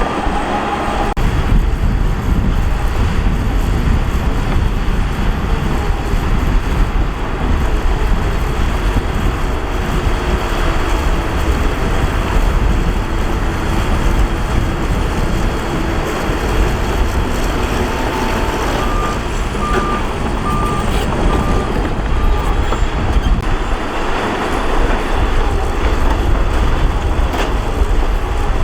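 Diesel engines of heavy earthmoving machinery running with a steady low rumble. A reversing alarm beeps about six times about two-thirds of the way through.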